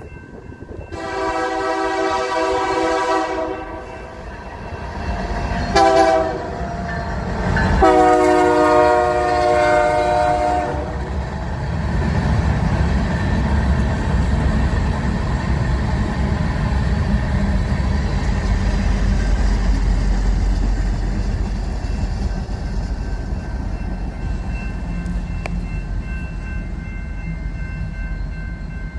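BNSF diesel freight train: the locomotive horn sounds a long blast, a short one and another long blast, each a chord of several tones. Then covered hopper cars roll past with a steady low rumble.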